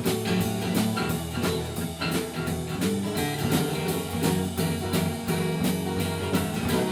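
Live blues-rock band playing an instrumental break: electric guitar over bass and a drum kit keeping a steady beat.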